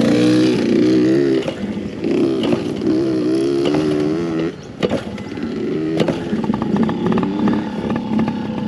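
Yamaha PW50's small single-cylinder two-stroke engine running just after starting, revving up and down unevenly for the first few seconds. It then settles to lower, steadier running, with a few sharp clicks.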